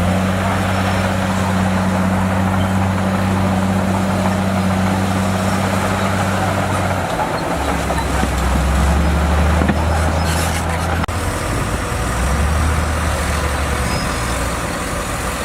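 Diesel engine of a heavy earthmoving machine running steadily, its note dropping lower about seven seconds in.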